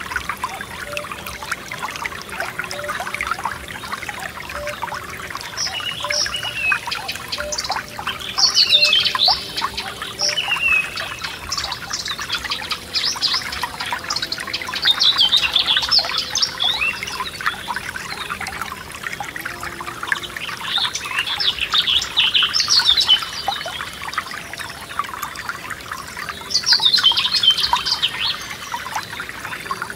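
Small forest stream trickling and babbling steadily, with a songbird singing over it in short phrases of a second or two, about five times, the loudest around 9, 15, 22 and 27 seconds in.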